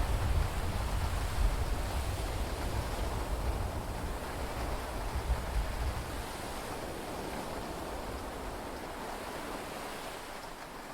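Steady hiss of heavy rain and sea heard from inside a yacht's cabin, with a deep rumble that fades away over the first six seconds or so.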